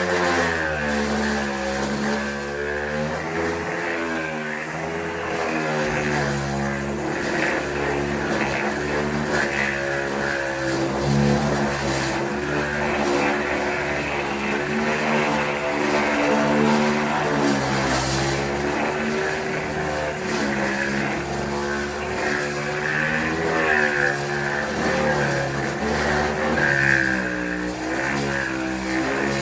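A power tool's motor running continuously during fender bodywork, its pitch rising and falling again and again.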